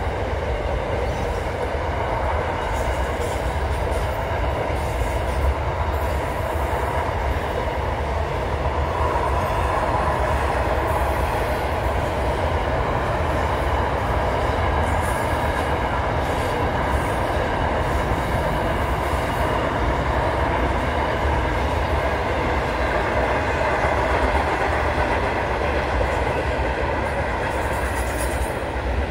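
Container freight train wagons rolling past steadily: a continuous rumble with a steady high squeal from the wheels over it.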